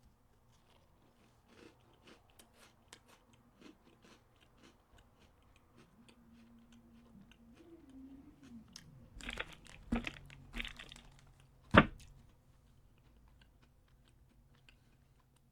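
A crunchy cinnamon-flavoured Oreo sandwich cookie being bitten and chewed close to the microphone, a run of small crisp crunches. A few louder sharp crunches or knocks come between about nine and twelve seconds in, the sharpest near the end.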